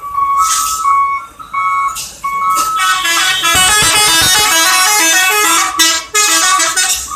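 A melody of clear, high tones: short repeated notes at first, then from about three seconds a fast, dense run of notes that thins out again near six seconds.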